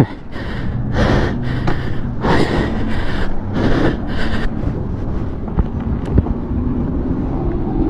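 A person breathing hard and gasping after a motorcycle collision, with several loud breaths in the first half that then ease off. A steady low engine or traffic hum runs underneath.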